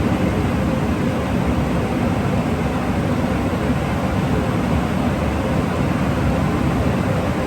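Holz Autowaschtechnik car wash tunnel equipment running with a steady, even rushing noise.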